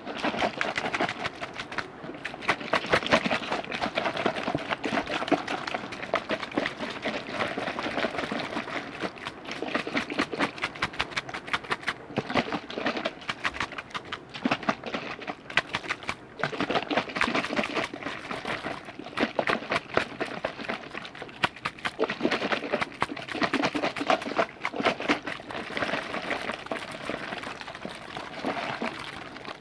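Liquid being worked by hand for ASMR: a dense, continuous run of small wet clicks, bubbles and splashes that swells and eases every few seconds.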